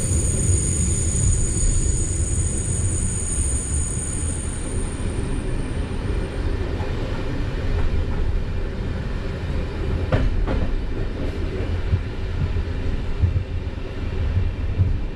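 A moving passenger train heard from inside the coach: a steady low running rumble. A faint high whine fades away over the first few seconds, and a few short clicks come about two-thirds of the way through.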